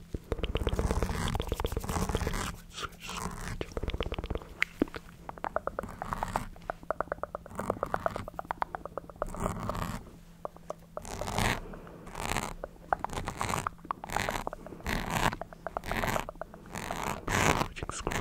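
Close-miked ASMR mouth sounds: fast wet clicking and crackling rattles for the first half, then short hissing, breathy bursts about once a second.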